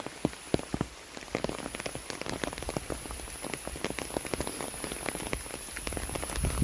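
Rain falling in large, separate drops that land as many sharp ticks close by, with a steady high-pitched buzz of forest insects behind them.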